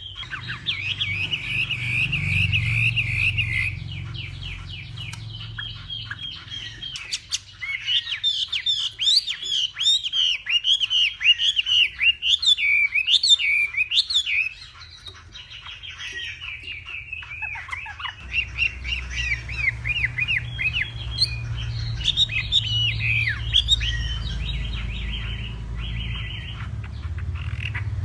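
Chinese hwamei singing a long, varied song of rapid trills and whistled phrases, with a brief lull midway. A low rumble runs underneath.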